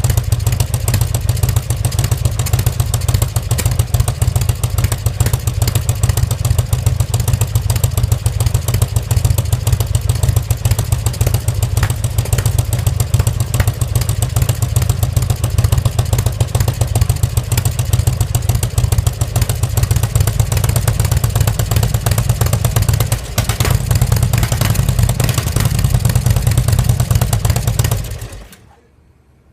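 2004 Harley-Davidson XL1200R Sportster's air-cooled V-twin running steadily through its stock North American-spec muffler, a deep even exhaust pulse. The engine is shut off near the end and the sound dies away.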